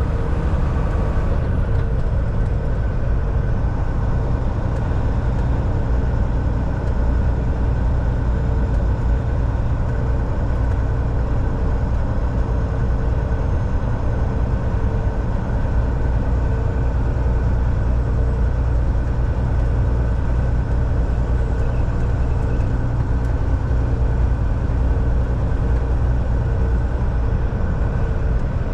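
Volvo VNL 760 semi truck at a steady cruise, heard from inside the cab: a constant low engine drone with road and tyre noise, holding level with no shifts.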